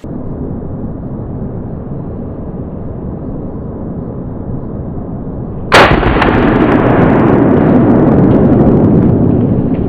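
A passing train rumbling steadily, then a single shotgun blast about six seconds in, after which the rumble goes on louder.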